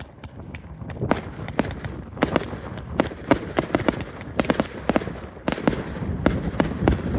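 Fireworks display: a rapid, irregular run of sharp bangs from bursting shells, several a second, over a continuous low rumble of crackle and echoing reports.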